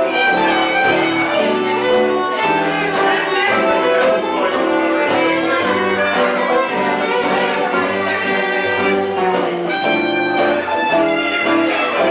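Live band music led by a violin playing a busy melodic line over accompaniment.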